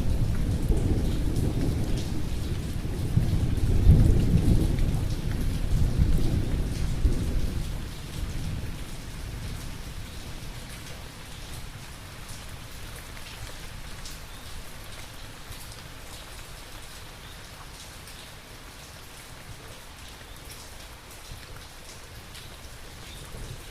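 Thunderstorm: steady rain falling, with a long low roll of thunder that peaks about four seconds in and dies away by about eight seconds, leaving only the hiss of rain.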